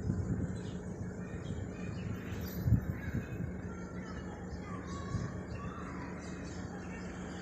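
Birds chirping faintly over a steady low hum and rumble, with one low thump about two and a half seconds in.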